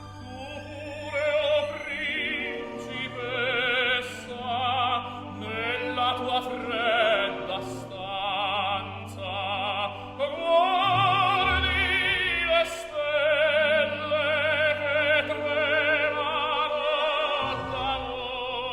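Music: a solo operatic voice singing with strong vibrato over orchestral accompaniment.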